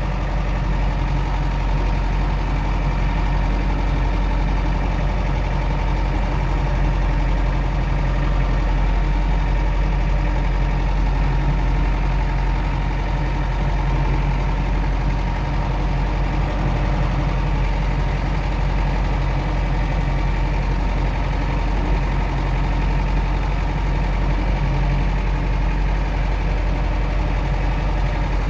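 Farm tractor engine running steadily as it drives up a snowy hill, a constant low drone heard close up.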